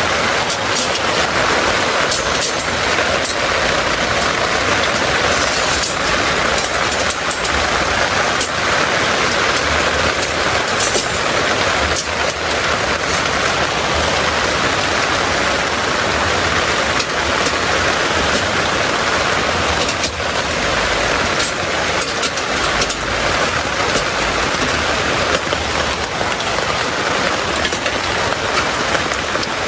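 Heavy rain falling steadily, with scattered sharp drop impacts ticking through the even hiss.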